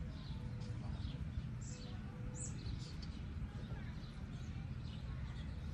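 Small birds chirping in short, high calls that slide downward, scattered through, over a steady low rumble.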